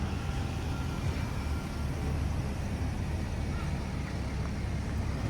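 Steady low rumble of city street traffic, with no single distinct event standing out.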